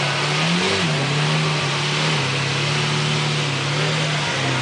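Lamborghini Murciélago V12 running at a fast idle, with a short throttle blip about half a second in. The engine note settles slightly lower near the end.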